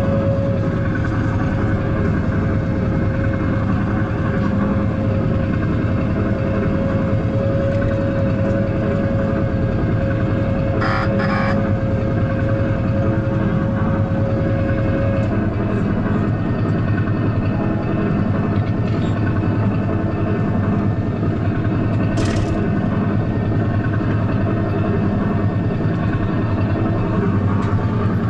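Engine of a vintage ride car running steadily while the car stands still, with a steady whine that stops about halfway and a couple of brief clicks.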